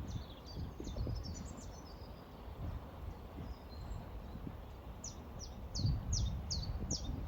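Small songbirds chirping over a steady low rush of flowing river water. About five seconds in, one bird gives a run of about seven quick, high notes, each falling in pitch.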